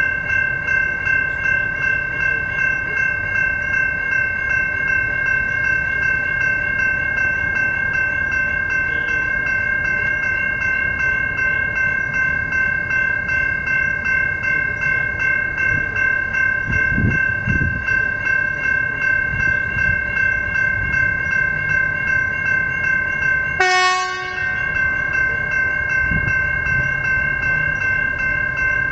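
Level crossing warning bells ringing continuously in rapid repeated strikes while the crossing is activated. There is a short horn blast about 24 seconds in.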